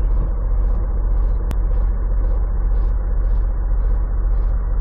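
Semi truck's diesel engine idling, heard from inside the cab: a steady low hum with faint quick ticks about three times a second. A single sharp click comes about a second and a half in.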